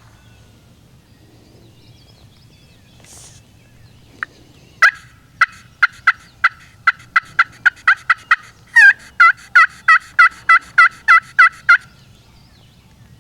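A long series of loud turkey yelps, about three a second. About halfway through they turn louder and fuller, with a lower note added, then stop abruptly.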